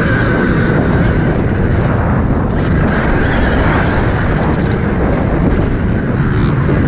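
Helmet-camera riding noise on an Alta Redshift MXR electric motocross bike: steady, loud wind buffeting on the microphone, mixed with the rumble of the bike moving over the track.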